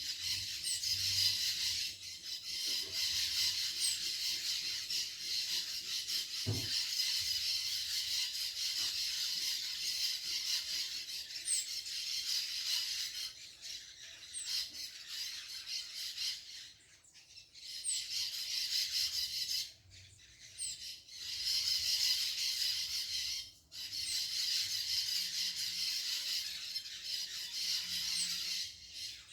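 Outdoor birdsong: short, thin, high falling call notes every few seconds over a steady high-pitched chorus that cuts out briefly several times.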